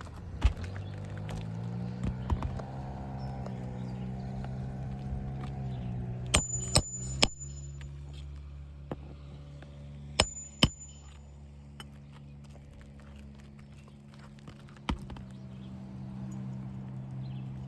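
Sharp strikes on a roof, mostly single or in quick pairs and triplets, some with a short metallic ring: nails being driven while a replacement shingle is fastened. Under them runs a steady low motor hum that rises in pitch during the first couple of seconds.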